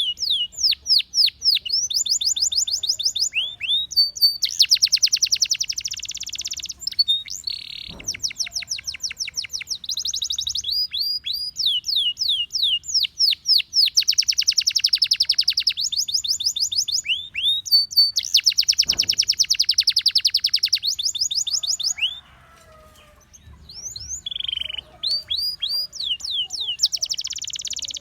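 Gloster canary singing a long, loud song. It alternates series of quick, falling whistled notes with fast rolling trills that last a second or two each, and it pauses briefly about three-quarters of the way through.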